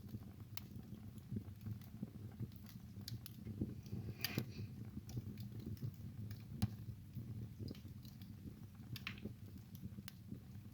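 Wood fire burning in a fireplace: a low steady rumble of flames with irregular crackles and sharp pops, a few louder snaps about four, six and a half and nine seconds in.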